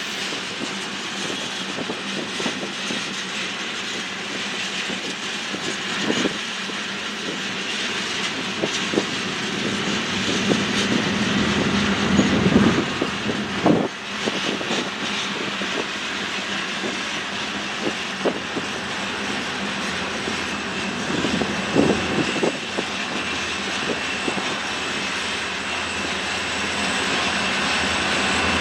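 Train rolling past, its steel wheels rumbling on the rails and clicking over the rail joints every second or few. A faint high wheel squeal comes in near the end.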